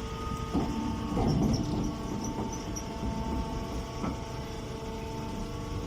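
Chopped-hay pressing baler machine running: a steady motor hum with several held tones and irregular low rumbling.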